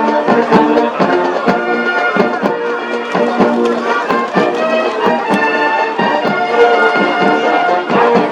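Military band playing a march: brass instruments carrying the tune over a steady drum beat.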